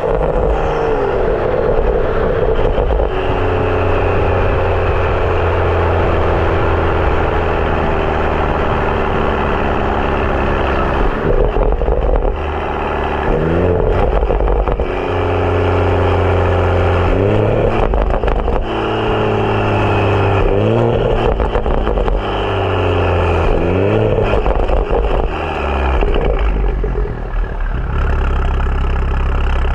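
BMW F30 335i's N55 turbocharged inline-six running through a catless downpipe and M Performance exhaust, pulling through the gears: the engine note climbs and drops back again and again. Near the end it settles to a steady low drone.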